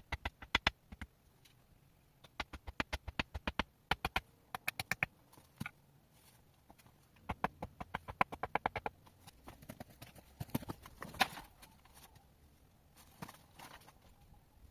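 Bursts of rapid, sharp knocks, several a second, broken by short pauses.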